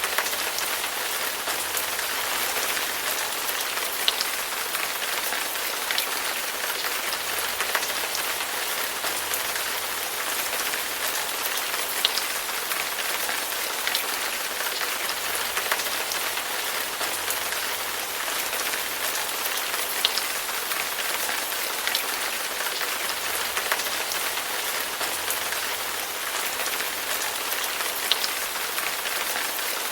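Steady rain pattering on a hard surface, with scattered louder drips landing every few seconds.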